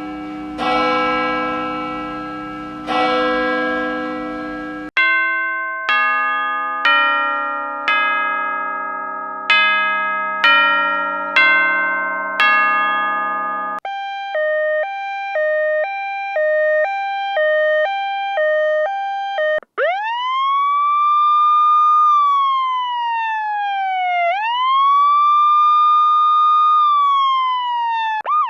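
A sequence of stock sound effects. First, bell-like tones ringing out from strikes, then a run of about ten single chime notes at different pitches, roughly one a second. About halfway through comes a two-tone hi-lo siren alternating about twice a second, then a wailing siren that rises, holds, falls and rises again.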